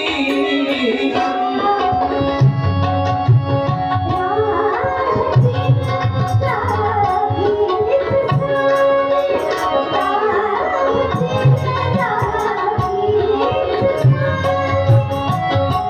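Instrumental passage of a Marathi abhang: tabla keeping a steady rhythm with deep resonant bass-drum strokes, under held melodic tones and a sliding melody line.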